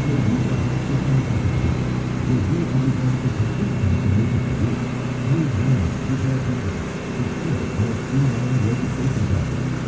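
Sawmill engine running, a steady low drone that wavers slightly.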